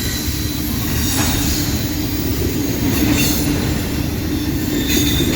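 Loaded double-stack container cars of a CSX intermodal freight train rolling past at close range. The wheels on the rail make a steady, loud rumble with a low hum. A few brief high-pitched bursts rise over it, about two seconds apart.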